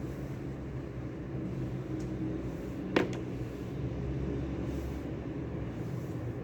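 Steady low rumble of indoor room ambience with a faint hum, broken once by a single sharp click about three seconds in.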